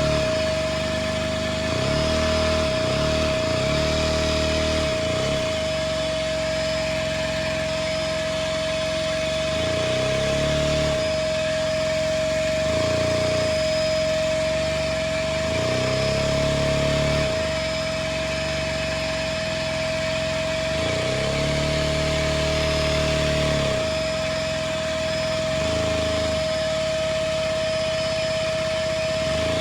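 Motor of a Lego Technic truck model running with a steady high whine, driving its plastic four-speed gearbox. The lower gear noise rises and falls in pitch every few seconds as the transmission is shifted from gear to gear.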